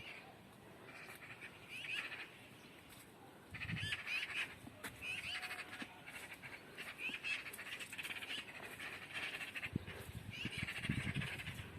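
Birds calling over and over in short, repeated calls, with a few low rumbles in between.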